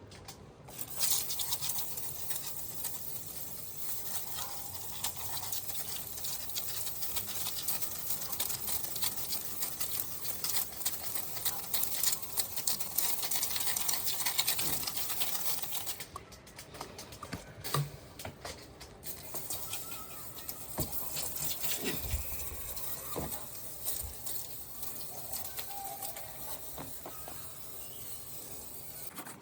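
Hissing, pattering spray against the indoor unit of a Gree split air conditioner as it is cleaned, breaking off for a few seconds past the middle and then resuming more quietly.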